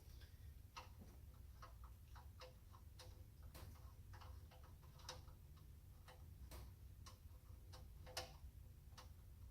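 Faint, irregular light clicks and ticks, roughly one or two a second, over a low steady hum, with one slightly louder click near the end.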